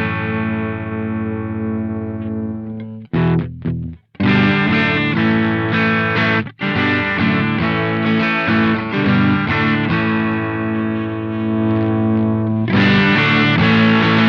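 Electric guitar played through a Velouria FX Witchcraft distortion/preamp pedal, heavily distorted. Chords ring out, with a few short choked stabs about three seconds in and brief stops between phrases. Near the end the playing gets louder and brighter.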